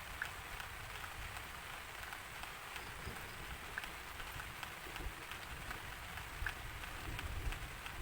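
Steady rain, with scattered individual drops ticking on a surface over a low, uneven rumble.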